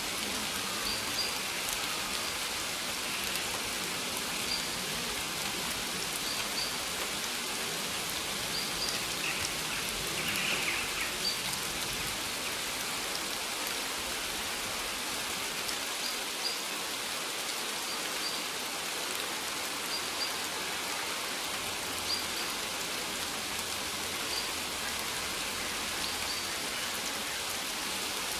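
Steady rain pattering on maize leaves, an even hiss of drops. A faint short high chirp recurs every second or two.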